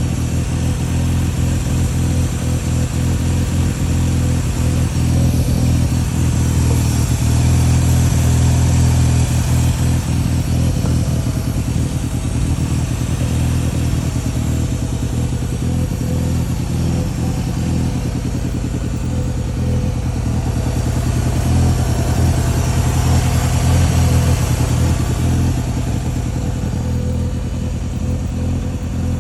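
Mazda RX-7's 13B twin-rotor rotary engine running on a Microtech aftermarket ECU, mostly steady at idle, with two mild rises in engine speed.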